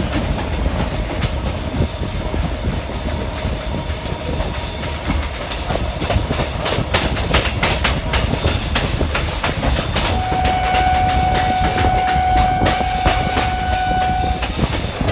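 Suburban electric local train running on the rails: a steady rumble with the clatter of wheels over rail joints. About ten seconds in, a train horn sounds one steady note for about four seconds.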